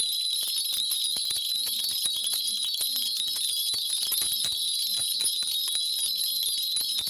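A Korean shaman's cluster of ritual brass bells (bangul) shaken continuously in a fast, even jingle.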